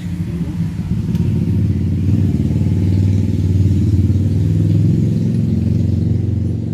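An engine running steadily with a low, fast-pulsing hum, growing louder toward the middle and easing slightly near the end.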